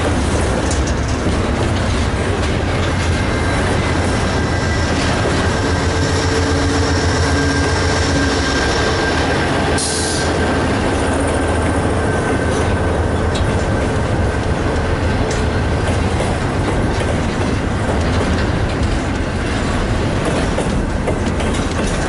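Double-stack intermodal train's loaded container well cars rolling past steadily, steel wheels clacking and rumbling on the rails. A faint, thin wheel squeal runs for several seconds in the first half.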